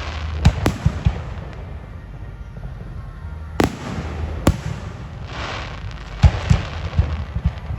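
Aerial fireworks shells bursting: a quick cluster of sharp bangs about half a second in, two single bangs a little under a second apart around the middle, and another cluster of bangs near the end. A crackling hiss swells between the bursts over a low rumble.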